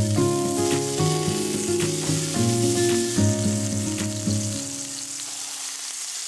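Beef hamburger patties sizzling steadily as they fry in a frying pan.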